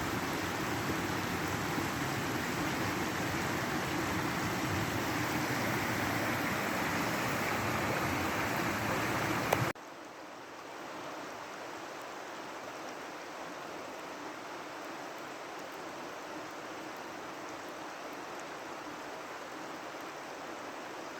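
Steady rush of flowing river water. About ten seconds in it cuts off abruptly and a quieter, softer rush takes over.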